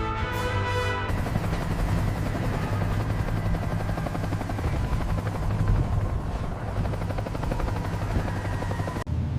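A heavy machine's low, steady rumble with a fast, even pulse, taking over from music about a second in and cutting off suddenly near the end.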